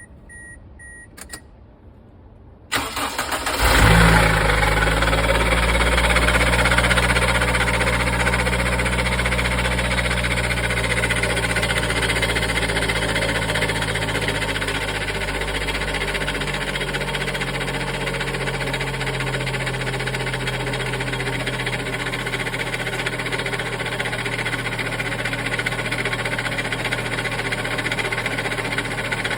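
Toyota HiAce engine cranked by the starter and catching about three seconds in, after a couple of short electronic beeps, then running at a fast idle that settles lower about halfway through. The running engine carries the abnormal noise that is traced to the alternator.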